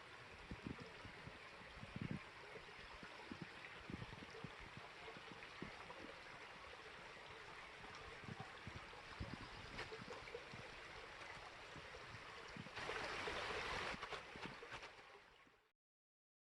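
Creek water running steadily, with scattered low thumps. Near the end the water grows louder for about two seconds, then fades out.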